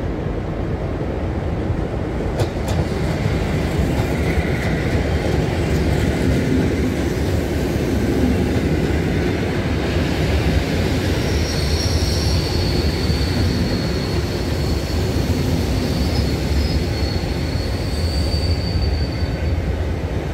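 Two coupled EN57 electric multiple units rolling into a station platform: a steady rail rumble and wheel noise. A high, thin metallic squeal runs through the second half as the train slows.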